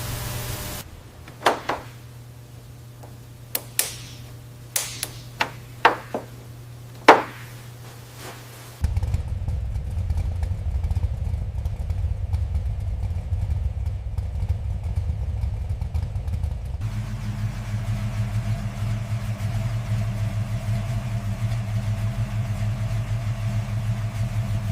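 A run of sharp clicks and knocks, then a car engine comes in suddenly and runs with a steady, low, fast-pulsing rumble. Its tone shifts about 17 seconds in.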